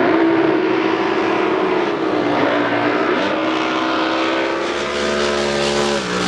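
Drag boat engine running steadily at a high idle, its pitch dipping slightly partway through and then dropping suddenly near the end.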